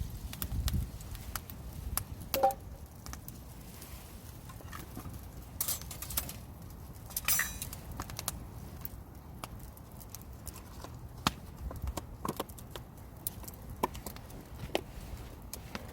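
Scattered light clicks and knocks of metal cooking utensils against a pan, with a brighter ringing clink about seven seconds in.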